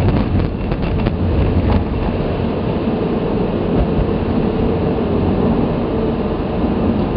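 Steady road and tyre noise with a low rumble, heard inside the cabin of a Toyota Prius cruising at about 35 mph on an icy interstate. A few faint ticks come in the first couple of seconds.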